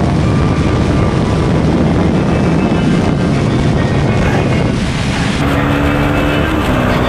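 Wind rush and a Honda CBR250R's single-cylinder engine running at steady highway cruise. About five seconds in, this gives way to a KTM Duke 390's single-cylinder engine holding a steady pitch, with less wind noise.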